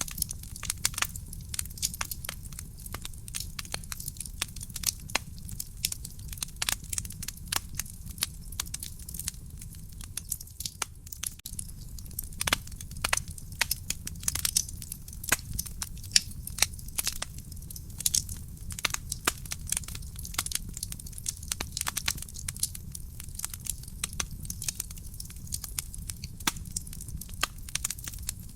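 Burning wood fire crackling in a fireplace: many sharp, irregular pops and snaps over a steady low rumble of the flames.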